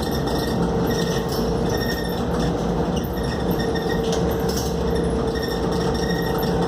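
Inside a Scania K280UD double-decker bus under way: its five-cylinder diesel runs with a steady drone and a constant hum, over road noise and the light rattle of fittings in the cabin.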